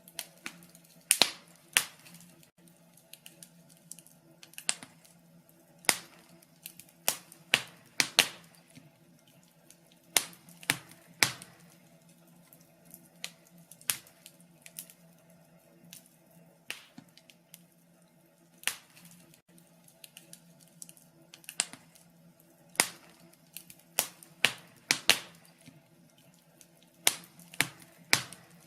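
Wood fire crackling in a fireplace: irregular sharp pops and snaps, sometimes two or three in quick succession, over a faint steady low hum.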